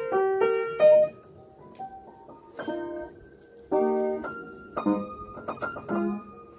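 Background piano music: struck notes and chords played with short pauses between phrases.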